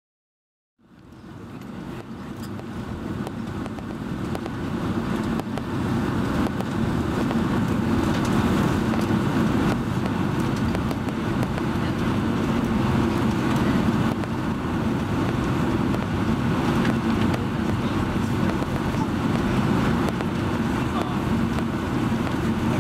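Cabin noise inside a Boeing 757-200 heard from a window seat: the jet engines and airflow make a steady deep rumble with a hiss above it. It begins under a second in and grows louder over the next several seconds before levelling off.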